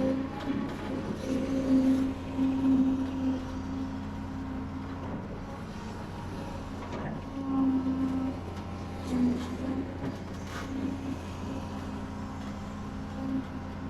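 Heavy construction machinery running: a steady diesel engine drone with a hum that swells and falls back, and a few faint knocks in the second half.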